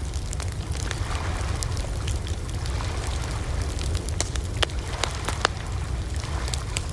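Campfire burning: wood crackling with irregular sharp pops over a steady low rush of flame.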